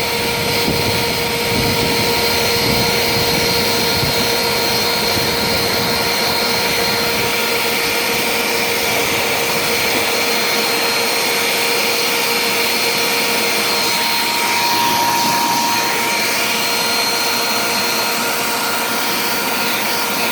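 A strong vacuum cleaner running steadily with a whine, sucking dust off the evaporator coils of a portable air conditioner. Its pitch shifts about two-thirds of the way through.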